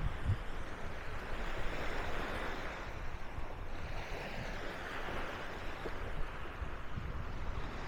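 Sea waves breaking and washing up the sand, the wash swelling and fading every few seconds, with wind rumbling on the microphone.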